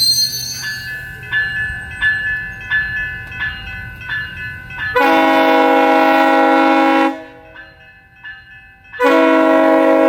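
A train's wheels squeal briefly at the start. A bell then rings evenly about one and a half times a second, and the locomotive's horn sounds two long, loud blasts of about two seconds each, with a pause between.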